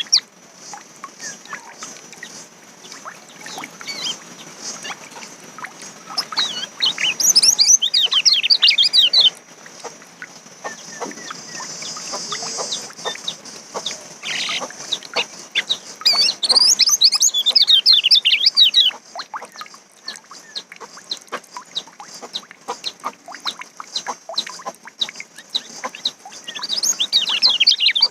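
Kecial, a white-eye songbird, singing in three bursts of rapid, high, falling chirps, with a steady high hiss and scattered clicks between them.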